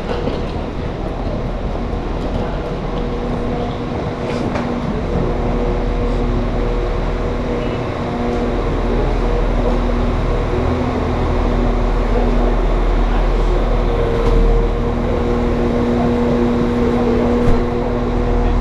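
Railway train running at a station: a steady low rumble with a hum of several held tones that come and go, and one short sharp click near the end.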